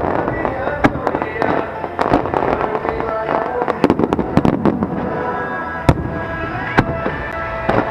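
Aerial fireworks bursting in a rapid run of sharp bangs and crackles, with the strongest blasts about six and seven seconds in and again near the end. Music plays underneath.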